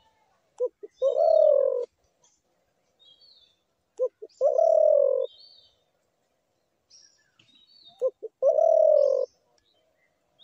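Spotted dove calling: three repeats, about four seconds apart, of two short coos followed by a longer drawn-out coo. Faint high chirps of small birds come between the calls.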